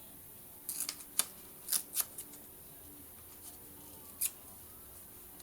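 Scissors cutting paper: a handful of short, crisp snips in the first couple of seconds and one more near the end.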